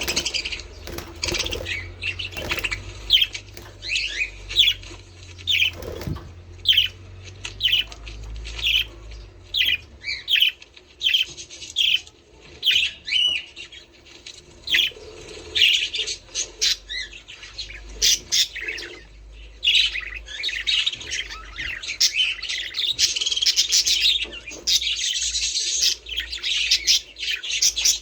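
A flock of budgerigars chirping and warbling: many quick, overlapping chirps that grow denser near the end.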